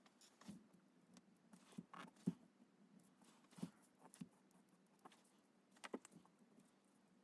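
Faint, irregular scratches and light taps of a drawing tool on paper, a few short strokes at a time, with the loudest tap about two seconds in.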